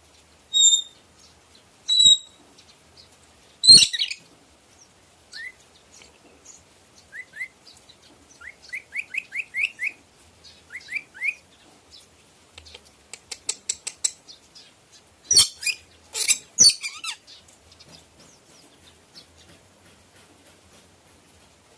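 Red lory calling: a few shrill whistles, loud harsh screeches, runs of short rising chirps, and a quick rattling chatter.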